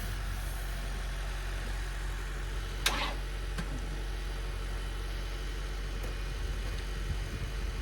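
A car engine idling steadily while hooked up with jumper cables to charge the dead battery of the other car. There is a sharp click about three seconds in.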